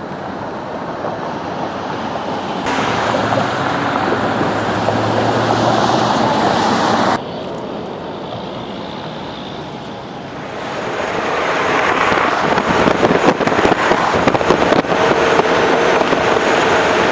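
Wind rushing over the microphone along with motorcycle engine and road noise at speed. The sound drops abruptly about seven seconds in, then builds louder again and gusts near the end.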